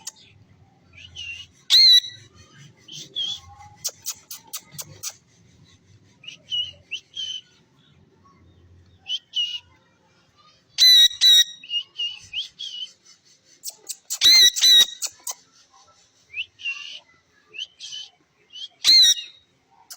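Pet parrot calling in short, shrill squawks and whistles, with four loud bouts of calls and softer chirps in between.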